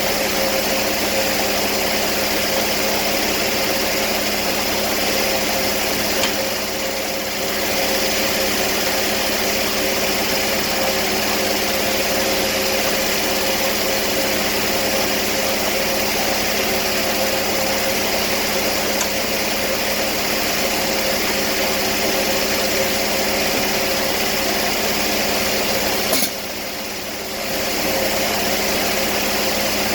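Sawmill engine running steadily at constant speed, with two brief drops in level: one about six seconds in and one near the end.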